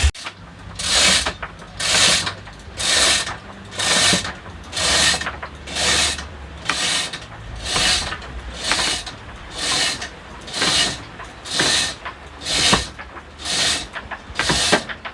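Hand winch ratcheting in even strokes, about one a second, as tackle hauls a wooden boat toward the water.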